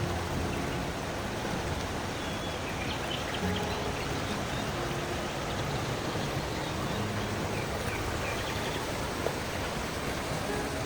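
Steady outdoor ambience: a continuous rushing noise with a low hum under it and a few faint bird chirps.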